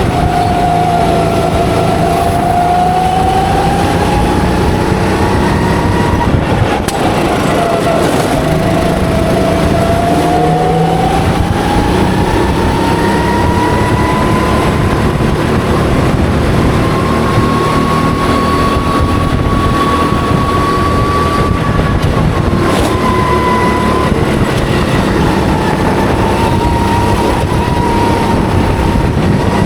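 Go-kart engine heard from on board, running hard through a lap. Its pitch dips for corners about a second in and about eight seconds in, and climbs steadily in between.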